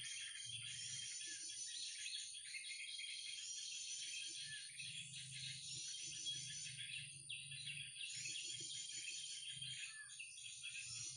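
Many small birds chirping and twittering continuously, over a steady high-pitched insect whine and a low rumble.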